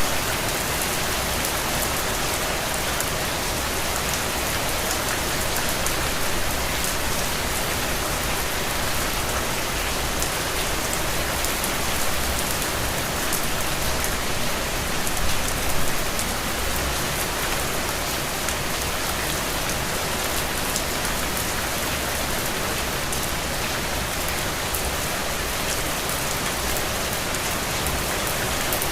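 Steady rain falling on a surface, a dense even hiss with fine drop ticks, swelling briefly a couple of times about halfway through.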